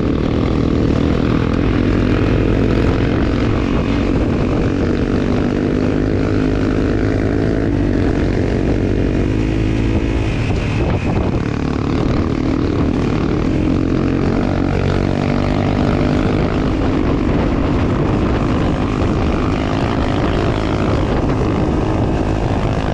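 Motorcycle engine running steadily while riding, a continuous drone whose pitch rises and falls slightly.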